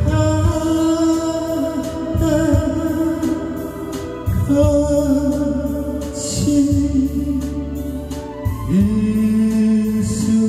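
A singer holding long, slow notes of a Korean folk ballad over guitar accompaniment, moving to a new held note about halfway through and again near the end.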